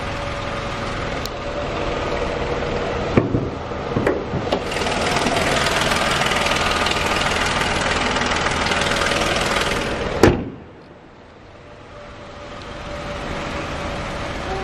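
Renault Sandero 900T's 0.9-litre turbocharged three-cylinder engine idling, with a few clicks as the bonnet is opened and the idle louder with the bonnet up. About ten seconds in the bonnet is slammed shut with one loud knock, after which the idle is muffled.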